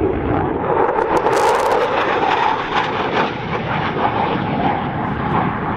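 Eurofighter Typhoon jet engine noise heard from the ground: a steady, loud rush with a brief crackling burst about a second in.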